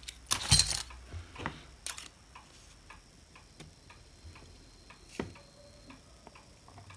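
A few light knocks and taps, then an even run of faint ticks, about four a second.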